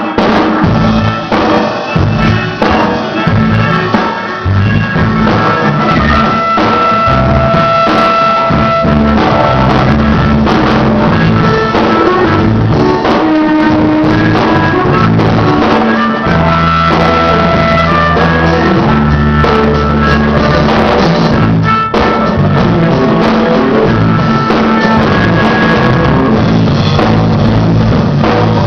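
Rock band playing: drum kit, bass guitar and guitar, with a harmonica holding long notes.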